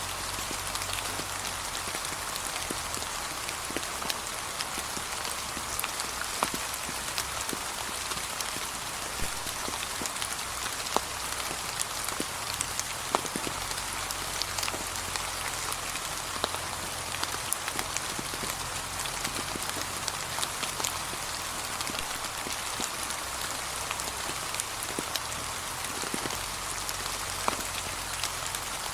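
Gentle, steady rain falling on a path covered in fallen autumn leaves, with individual drops ticking sharply here and there.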